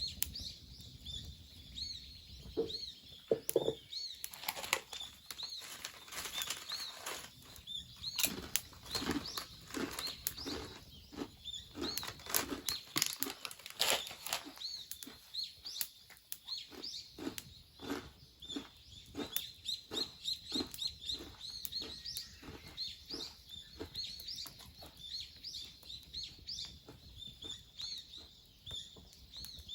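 A small bird chirping over and over in short, high notes, joined in the middle by a run of rhythmic flapping strokes, about two a second, that then die away.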